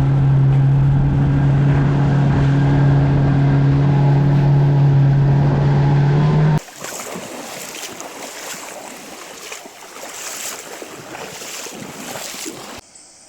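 Boat motor running steadily at a constant pitch. After about six and a half seconds it cuts off suddenly, and a softer steady hiss follows.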